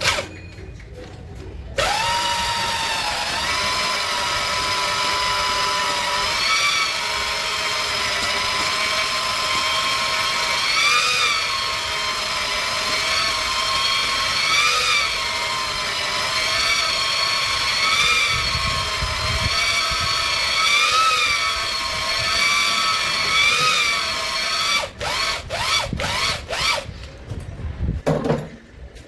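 Electric drill spinning a cylinder hone in a Cummins 6BT diesel engine's bore, a steady motor whine whose pitch dips and recovers every couple of seconds as the hone is worked. Near the end the trigger is blipped a few times before the drill stops.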